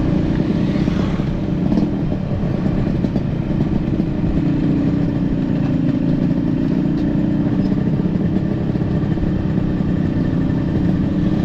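Motorcycle engine running at a steady pace, a continuous low hum without revving up or down.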